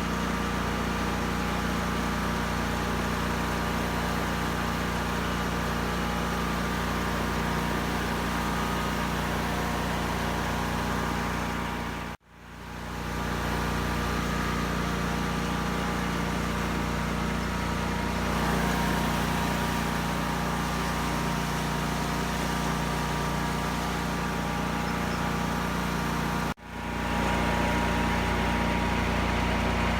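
Engine running steadily at an even pitch. It breaks off sharply twice, a little under halfway and near the end, and comes back each time within a second.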